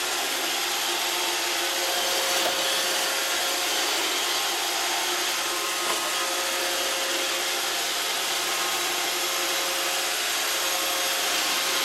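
iRobot Roomba 560 robot vacuum running steadily, its vacuum motor and brushes making an even whirring noise with a faint steady whine in it. There is a small click about six seconds in.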